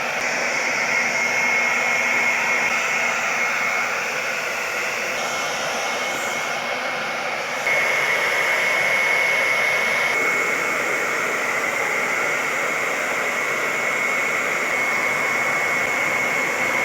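Blow dryer running steadily, with an airy rush and a constant high whine, drying a dog's wet coat after its bath. It gets louder about eight seconds in.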